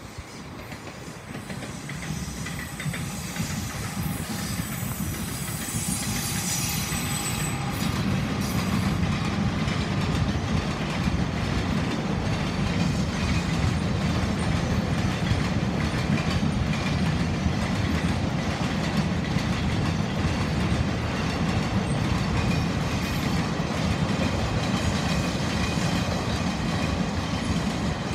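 Freight train of covered hopper wagons rolling past on the rails. It grows louder over the first eight seconds or so, then runs steadily.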